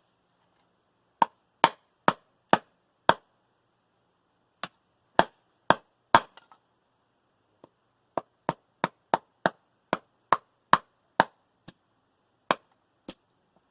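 Machete blows chopping and splitting small pieces of firewood: a series of sharp, separate chops, about twenty in all, in quick runs of several strikes with short pauses between.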